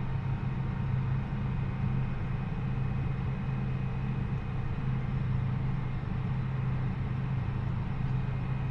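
John Deere 8400R tractor's diesel engine running steadily under way, a constant low drone with a faint steady whine above it.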